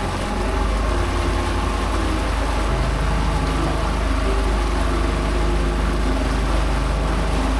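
An engine running steadily under a heavy low rumble, its pitch stepping up slightly about three seconds in.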